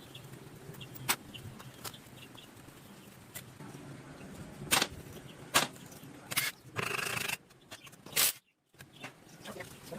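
Scattered sharp knocks and clicks, the loudest a little under five seconds in and about eight seconds in, with a short hiss around seven seconds; the sound cuts out completely for a moment just after eight seconds.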